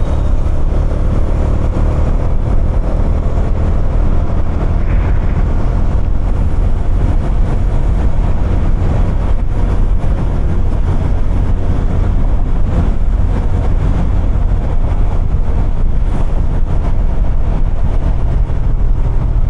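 Bajaj Dominar 250's single-cylinder engine and exhaust running steadily under way, with a steady low rumble and little change in engine speed.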